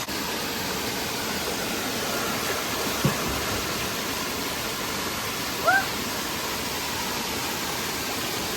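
Waterfall and stream water rushing steadily. There is a short knock about three seconds in and a brief rising chirp about two-thirds of the way through.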